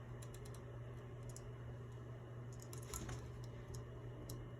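Faint, scattered clicks and taps of an Indian ringneck parrot's claws and beak gripping as it climbs, over a steady low hum.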